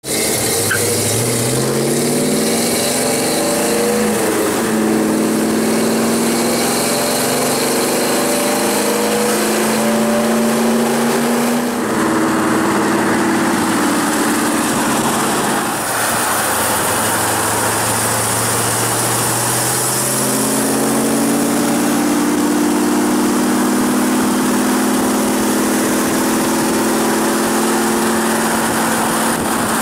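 V8 engine and exhaust of a 1967 Pontiac Acadian Beaumont. Its pitch climbs as it accelerates in the first few seconds, then it cruises at a steady note, which rises gradually again about two-thirds through. A steady hiss of road noise runs underneath.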